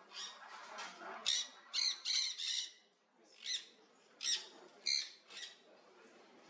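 A bird giving a series of short, harsh squawks, about two a second, with a brief pause about three seconds in, then a few more spaced calls before they die away.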